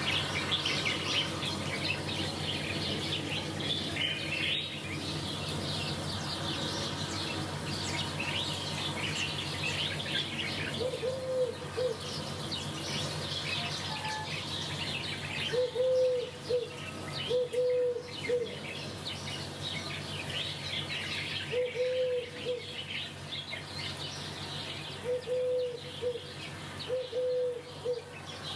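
A chorus of many small birds chirping and twittering, with a lower bird call repeated in short groups of two or three notes from the middle on, over a steady faint low hum.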